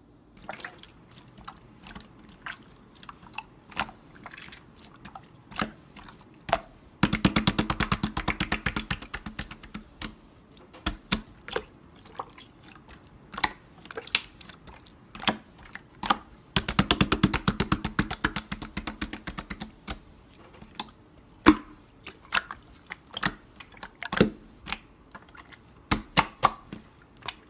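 Clear slime being pressed and poked by hand, giving sharp wet clicks and pops. Two stretches of rapid-fire popping come about a quarter and two-thirds of the way in.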